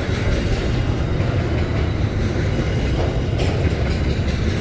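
Container wagons of a long diesel-hauled freight train rolling past: a steady rumble of steel wheels on the rails with a clickety-clack clatter.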